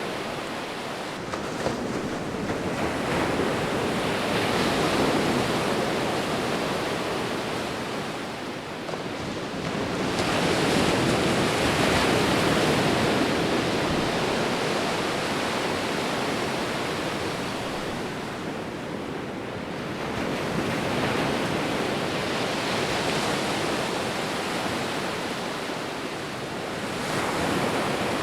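Sea waves breaking and washing on a shore, the surf rising and falling in slow surges every eight to ten seconds.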